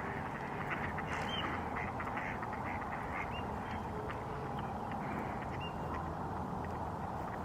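A flock of ducks quacking and chattering, many short overlapping calls, over a steady rushing background noise.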